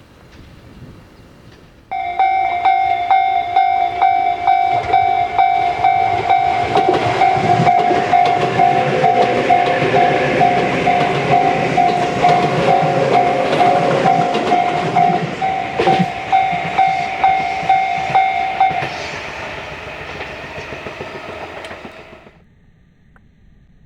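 Level-crossing warning signal sounding a pulsing electronic tone while an electric train passes with clattering wheels. The tone starts suddenly and stops about three quarters of the way through, and the train noise fades out shortly after.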